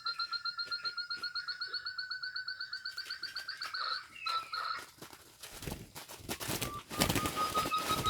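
A rapid, even series of whistled notes at a steady pitch, the forest quail (puyuh gonggong) call played from an mp3 as a lure, stops about four seconds in. About five and a half seconds in, loud rustling and thrashing starts as a quail struggles in the net, and the lure call comes back faintly near the end.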